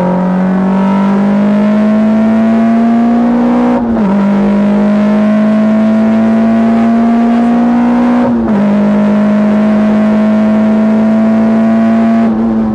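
Škoda Felicia 1.3 MPI four-cylinder engine heard from inside the cabin, accelerating with its pitch climbing slowly in each gear. Two upshifts, about four and eight and a half seconds in, each a brief dip followed by a lower pitch; near the end the engine eases off.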